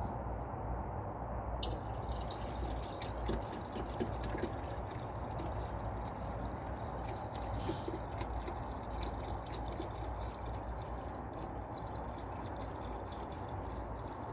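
Screen wash being poured into a car's washer fluid reservoir: a steady splashing trickle of liquid that begins about a second and a half in.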